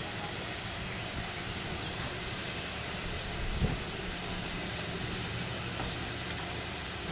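Train sounds: a steady hiss over a low rumble, with one short low thump about three and a half seconds in.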